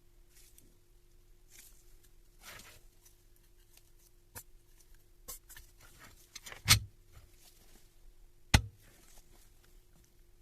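Parts and tools handled on a workbench during a demolition-hammer rebuild: scattered light clicks and clinks, with two sharp knocks in the second half about two seconds apart, over a faint steady hum.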